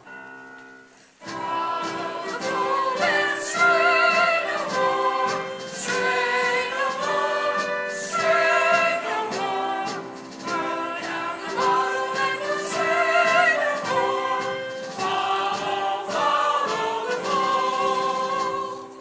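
A stage-musical cast singing together as a choir with accompaniment, coming in about a second in after a brief quiet start.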